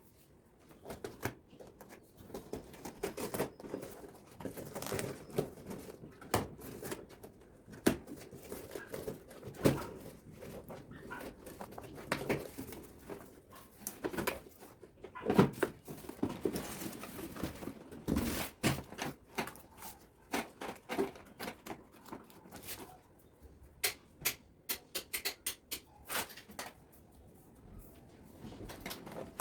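Packaging being handled and opened: irregular rustling, taps and small knocks.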